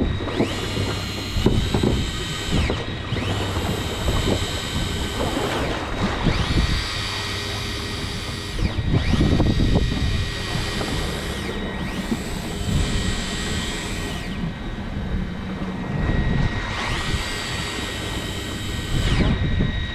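A motor whining steadily over rushing wind and water noise on a boat.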